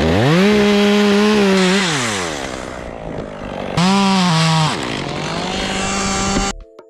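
Chainsaw revved to full throttle for about two seconds, then dropping back to idle; a second, shorter rev comes about four seconds in before it settles to idle again. The sound cuts off suddenly near the end.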